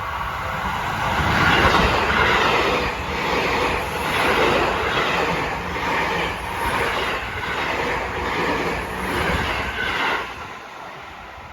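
Seibu 6000 series electric train passing a level crossing at high speed. Its wheels clack over the rail joints in an even rhythm, and the noise cuts off sharply about ten seconds in as the last car clears.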